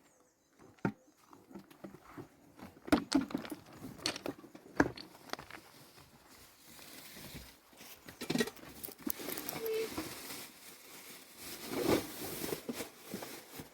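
Irregular knocks and clatter of things being handled, several sharp ones close together in the first few seconds. A steady hiss joins about halfway through.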